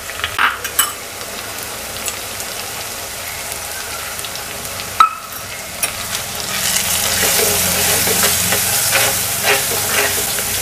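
A wet chilli, coriander and turmeric spice paste frying with onions in oil in a clay pot, stirred with a metal ladle that scrapes the pot, with one sharp clink near the middle. The sizzle grows louder a little past halfway as the paste is worked into the hot oil.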